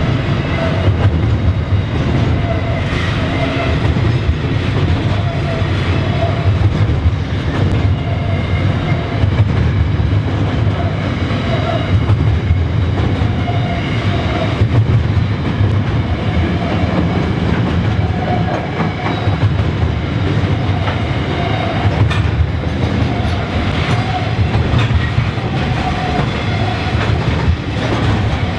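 Container freight train's wagons rolling steadily past at close range: a continuous low rumble with wheels clicking over the rail joints and short ringing tones every second or two.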